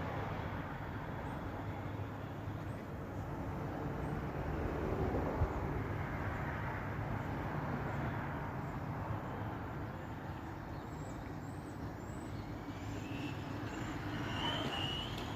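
Steady low outdoor rumble, like distant traffic, with a few short, high bird chirps near the end.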